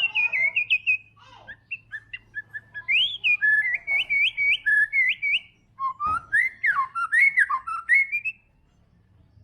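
White-rumped shama singing in full song: a run of loud, varied whistled phrases with quick rising and falling notes and rapid repeated notes. The song stops near the end.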